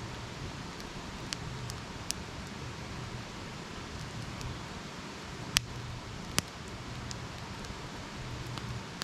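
Wood campfire burning with a steady hiss and scattered sharp crackles and pops, two louder pops a little past the middle.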